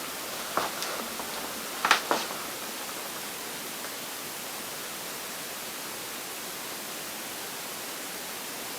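Steady hiss of room tone, with a few light knocks and taps in the first two seconds as a small detector device is set down on the floor.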